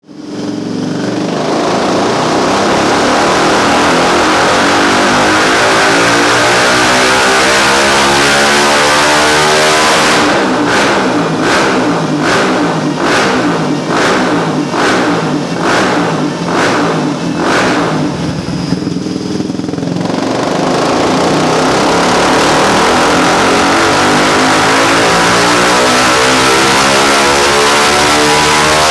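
Yamaha XTZ 250 Lander's single-cylinder engine run hard on a chassis dynamometer, its note climbing steadily in pitch through a pull for about ten seconds. Midway it breaks into a run of regular surges and dips about every half second for roughly ten seconds. Then it climbs again through a second pull.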